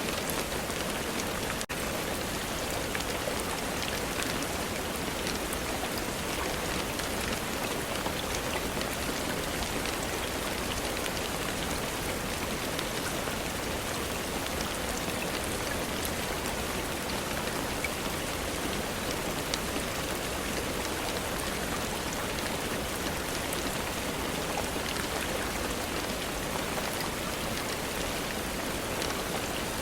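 Steady rain falling, an even hiss with many individual drops heard as small ticks.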